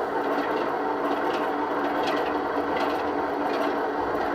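Model Class 33 locomotive's DCC sound decoder playing the idling Sulzer diesel engine through the model's small speaker: a steady running sound with a constant hum and faint regular ticks.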